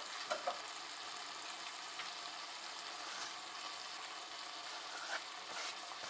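Chakhokhbili stew sizzling steadily in a kazan, with a few light knife taps on a cutting board as herbs are chopped, mostly in the first second.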